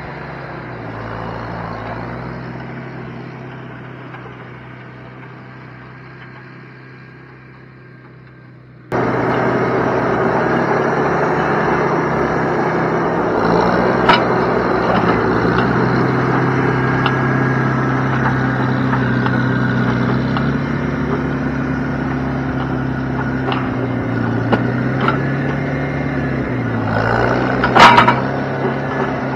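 An engine runs with its speed shifting slightly. The sound jumps suddenly louder about nine seconds in, and a few sharp creaks and knocks come through it, the loudest near the end.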